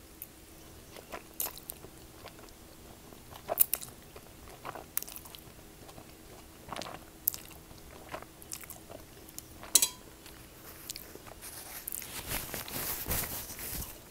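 Eating rice noodles: chewing and wet mouth sounds with scattered sharp clicks. Near the end a longer stretch of rustling as a paper napkin is handled.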